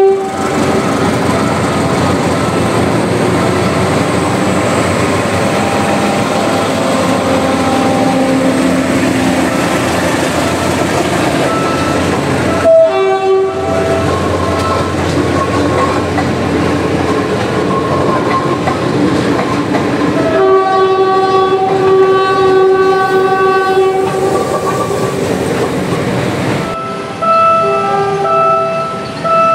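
Philippine National Railways diesel train passing with wheels clattering over the rail joints. Its multi-tone horn sounds a brief blast near the middle, one long blast of a few seconds later on, and several short blasts near the end. The sound changes abruptly twice, as between separate recordings.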